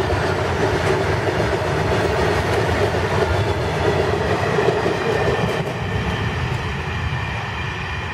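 A long rake of BOXN open freight wagons rolling past at speed: a steady noise of steel wheels running on the rails, easing off a little over the last few seconds as the end of the train goes by.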